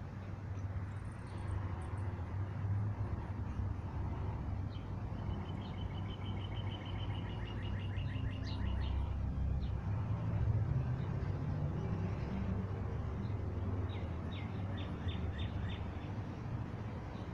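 Small songbird chirping: a rapid, slightly falling trill of notes about halfway through, then a shorter run of about seven chirps near the end, over a steady low outdoor rumble.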